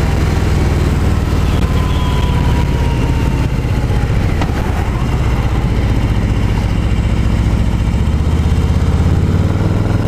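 Harley-Davidson 2018 Low Rider's Milwaukee-Eight 107 V-twin running steadily while the bike is ridden, heard from the saddle with wind noise over it.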